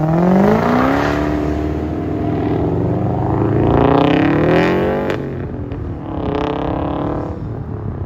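Modified car's engine revving hard as the car accelerates away, its pitch rising through the gears, with a sharp drop at a gear change about five seconds in and a couple of sharp cracks around the shift. The pitch climbs again after the shift before it fades near the end.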